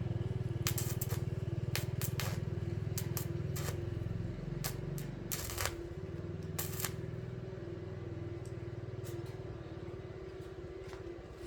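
A steady low machine hum runs under light metallic clinks and knocks, about a dozen of them at uneven intervals, as metal pieces are handled. The hum eases off in the second half.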